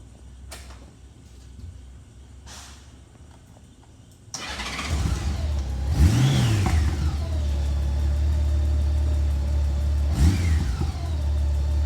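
A 2017 Honda Goldwing GL1800's flat-six engine starting about four seconds in after a quiet spell, then revved once, settling to a steady idle, and blipped again near the end.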